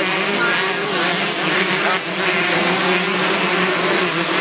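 125 cc two-stroke motocross bikes racing, their engines buzzing and revving up and down.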